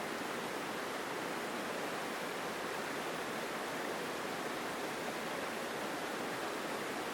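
Mountain stream rushing strongly over rocks, a steady full sound of flowing water.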